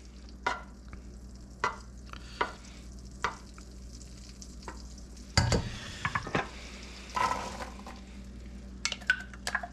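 Butter sizzling gently in a pan while a spoon stirs it, scraping and tapping against the pan, with a louder knock about five and a half seconds in and a quick run of taps near the end.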